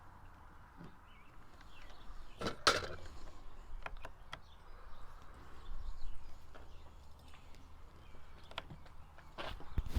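Scattered clicks and light knocks of hand tools and loosened parts being handled on a chainsaw's plastic housing as it is taken apart, the sharpest pair about two and a half seconds in.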